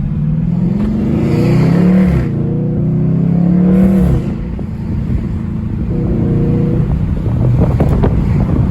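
Dodge Charger Scat Pack's 392 HEMI V8 accelerating hard: the engine note climbs, drops at an upshift about two seconds in, climbs again, then falls away as the throttle is lifted about four seconds in, leaving a rougher engine and road noise.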